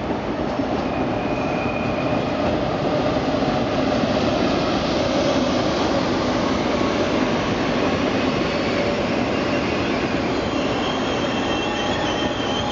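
TGV POS high-speed trainset rolling into the station: a steady rumble of wheels on rail, with a high, wavering squeal setting in near the end as it slows.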